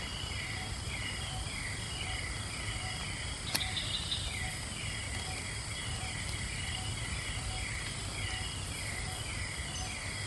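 Forest ambience: a creature calling in a steady, repeating series of short falling chirps, about two a second, over a faint low rumble and a high insect hiss. A single sharp click about three and a half seconds in.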